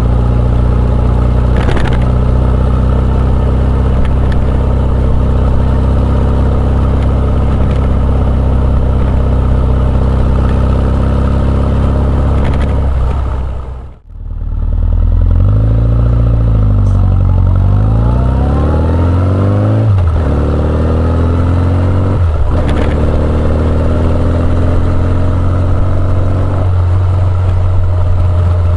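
Honda CB1100EX's air-cooled inline-four running through an Earl's Gear Wyvern Classic exhaust, first at steady cruising revs. The sound cuts out briefly about halfway. Afterwards the revs rise and fall a few times, as with acceleration and gear changes, and then hold steady again.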